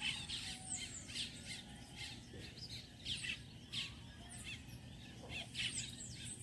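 Birds chirping outdoors, many short overlapping calls several times a second.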